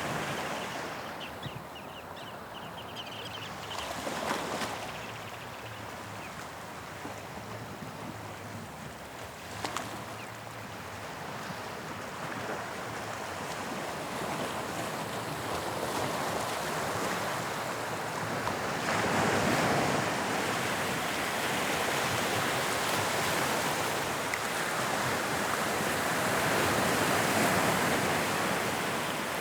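Sea waves breaking and washing on the shore, a continuous surf that swells louder in the second half.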